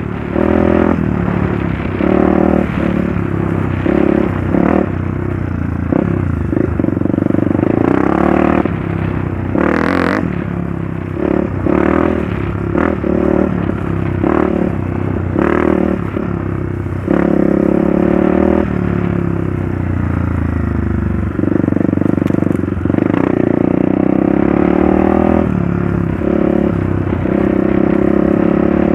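Trail motorcycle engine running under load, the throttle opening and closing again and again so the engine note keeps rising and dropping, mixed with repeated knocks and clatter from riding over rough trail.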